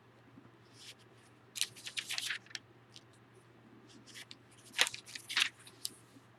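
Paper pages being leafed through: short clusters of rustling and crinkling, one about a second and a half in and a sharper one around five seconds in.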